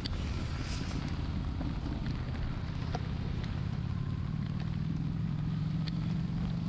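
Honda Shadow 750's V-twin engine running at a steady road speed, with wind buffeting the microphone. A few sharp ticks are scattered through it.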